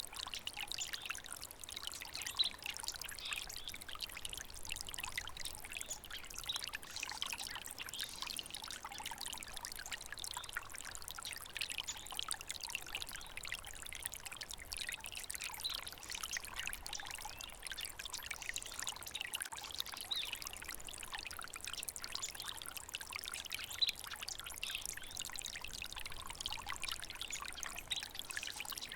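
Small stream of water trickling and babbling steadily, full of quick little splashes.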